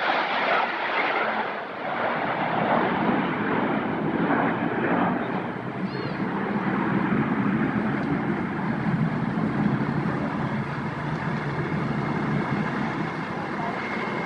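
Aircraft engine noise passing over, a broad rushing sound that slides lower in pitch as it goes.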